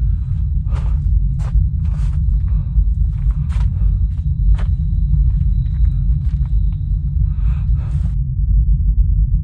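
Footsteps, roughly one to two steps a second, over a loud steady low rumble; the steps stop shortly before the end while the rumble goes on. A faint thin high tone sounds through the middle stretch.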